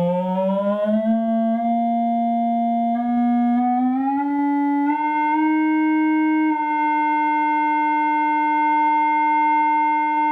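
Steady electronic tone from an iPad tone-generator app played through a small amplifier's speaker, rising in pitch in short slides and steps over the first five seconds or so, then holding one pitch. Faint clicks come with the pitch changes.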